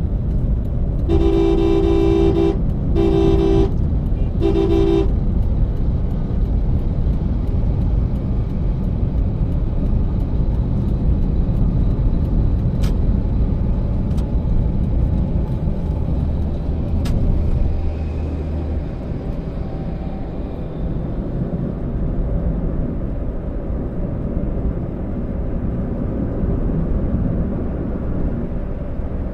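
A car horn honks three times in quick succession, each blast about a second long, over the steady low rumble of a car driving on the road.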